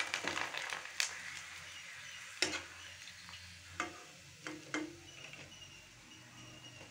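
Rice papad frying in hot oil in an aluminium kadai, a sizzle that slowly fades, with a few sharp clinks of a perforated ladle against the pan as it presses the papad flat so it won't curl and then lifts it out.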